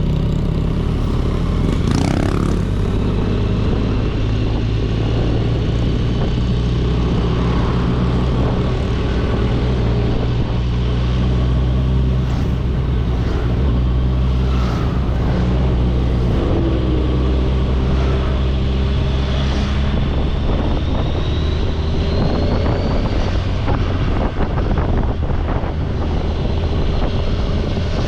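Kawasaki Ninja 1000SX inline-four engine running at fairly steady revs while being ridden.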